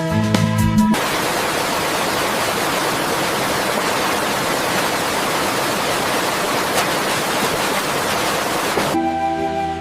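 Music stops about a second in and gives way to a steady, even rushing hiss with no pitch or rhythm, like rain, running water or static. Music returns near the end.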